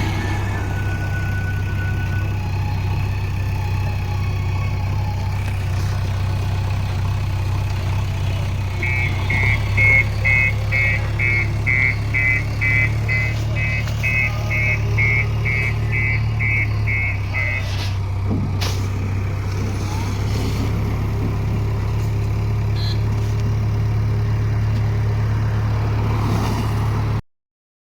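A JCB backhoe loader's diesel engine running steadily. About nine seconds in, its reversing alarm beeps about twice a second for roughly eight seconds while the machine backs up. The sound cuts off suddenly near the end.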